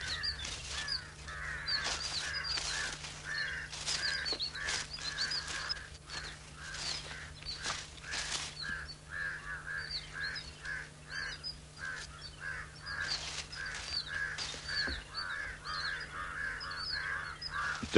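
Birds calling in a dense, continuous chorus: harsh calls repeat a few times a second, with many short, high chirps above them and scattered rustling clicks. A steady low hum runs beneath.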